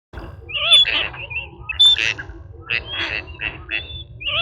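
Birds squawking and chirping: many short, overlapping calls with wavering pitch, over a steady low rumble.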